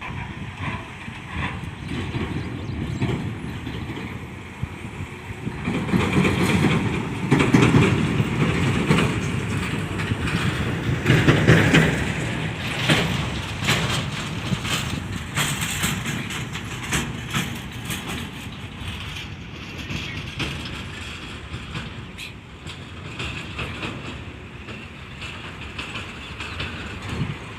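Heavy multi-axle truck's diesel engine running while the truck manoeuvres, growing louder for several seconds in the middle, then settling.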